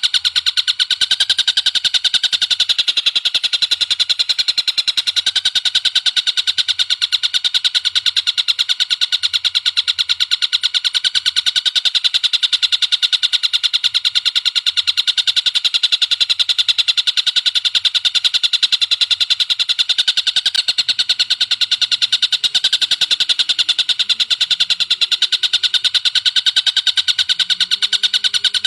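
Looped recording of spiderhunter and tengkek buto kingfisher calls: a fast, unbroken run of high, sharp notes repeated many times a second, going on steadily without a pause.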